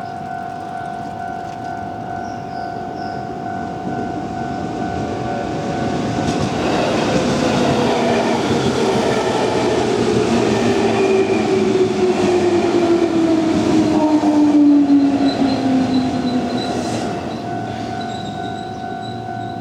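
A Japanese level crossing's warning bell rings steadily as an electric commuter train on the Nambu Line comes up and passes over the crossing. The train noise swells for several seconds, with a tone falling slowly in pitch as it goes by, and covers the bell. The bell is heard again near the end as the train noise fades.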